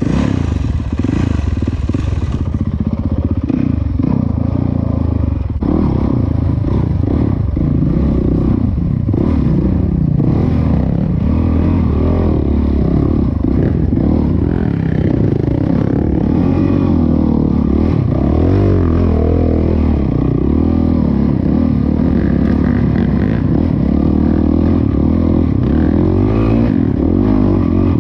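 Dirt bike engine running under way, its pitch rising and falling continuously as the throttle is worked, with some clattering from the bike.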